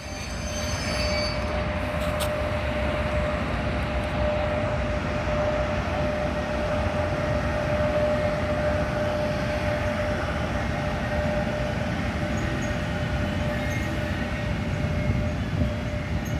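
Electric train running past: a steady rolling rumble with a thin steady whine held through it.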